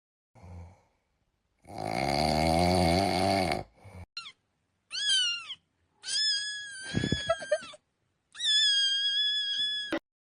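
A string of cat meme sound clips of cats meowing: a wavering cry, a short falling meow, then two long, drawn-out meows.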